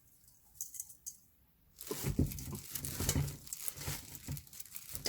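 Hands tossing and patting young garlic chives with chili-powder seasoning in a mixing bowl: a soft, wet rustling with light pats that starts about two seconds in.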